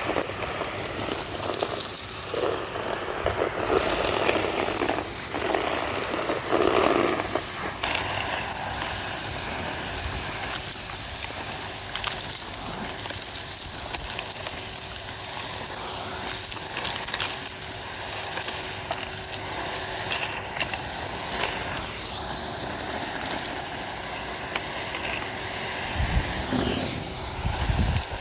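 Henry HVR200-22 vacuum cleaner running steadily while sucking up crunchy street grit, with a crackling hiss over the motor.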